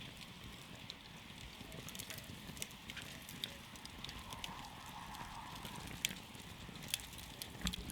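Wood campfire crackling: irregular sharp pops and snaps, several a second, over a low steady rumble of burning. The loudest pops come near the end.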